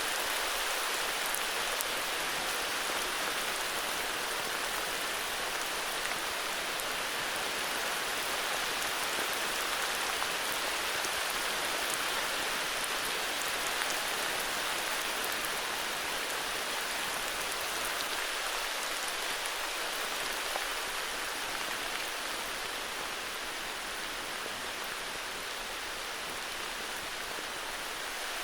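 Steady heavy rain falling, an even hiss of many drops with faint scattered patters.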